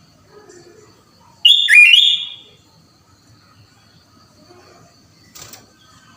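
Sooty-headed bulbul (kutilang) giving one short, loud whistled call of a few quick sliding notes about one and a half seconds in. A faint brief rustle follows near the end.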